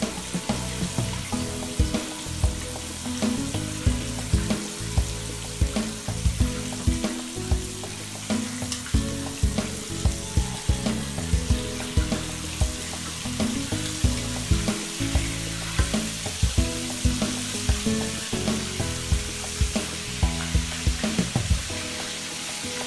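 Chicken drumsticks deep-frying in hot oil in a cast-iron skillet: a steady crackling sizzle. Background music with a regular beat plays under it.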